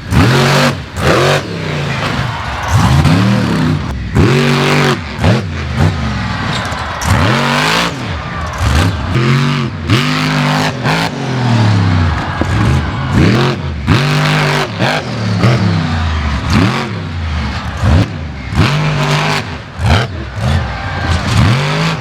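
Monster truck engines revving hard, their pitch sweeping up and falling back again and again, with frequent abrupt breaks between one run and the next.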